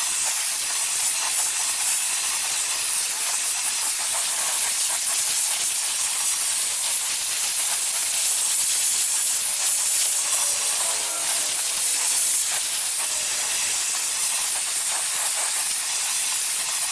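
Gas torch flame hissing steadily, preheating a mower spindle housing before brazing.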